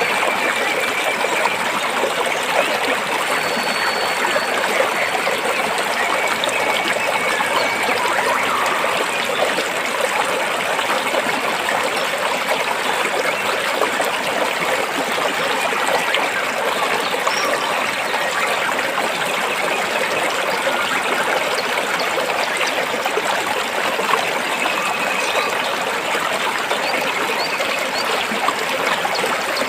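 Stream water flowing and splashing over and between rocks: a steady, even rush with many small splashes.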